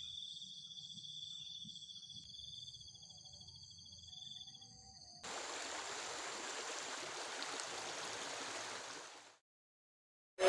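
A high, steady whining drone of several pitches at once, slightly wavering, which is the strange forest sound in question. About five seconds in it gives way suddenly to the even hiss of heavy rain, which cuts off abruptly near the end.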